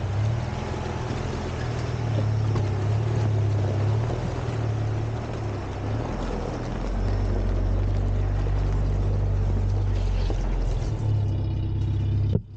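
4x4 off-road vehicle's engine working steadily under load while driving through a creek, with a wash of water noise around it. The engine note shifts about halfway through and drops away abruptly at the very end.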